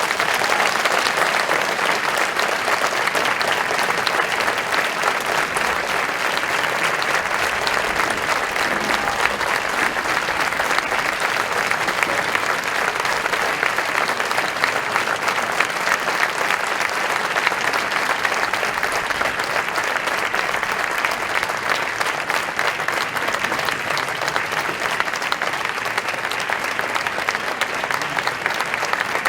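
Concert audience applauding steadily, a dense clapping that holds at an even level throughout.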